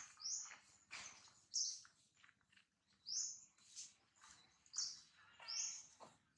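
A bird calling repeatedly, short high chirps coming about every second and a half, over light rustling and crackling of dry leaves.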